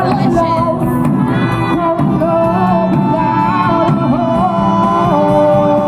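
Live Latin dance music: a singer holding long, wavering notes over a full band.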